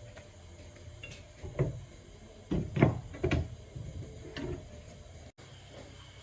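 A handful of knocks and clunks, five or so spread over about three seconds with the loudest near the middle, over a low steady hum.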